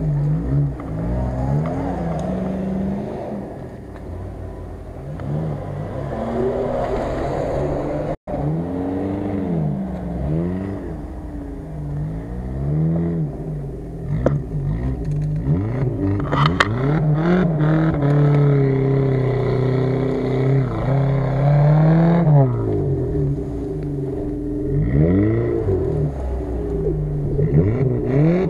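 Off-road 4x4 engine revving up and down over and over, with stretches held at high revs, as it is worked through deep mud. The sound drops out for an instant about eight seconds in.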